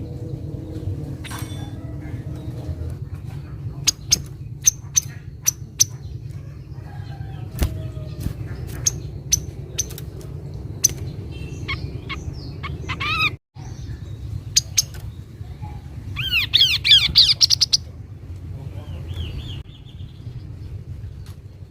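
Kaso-kaso bird calls: a run of short, sharp high notes about every half second, then, after a brief cut, a burst of rapid chirping over a steady low hum.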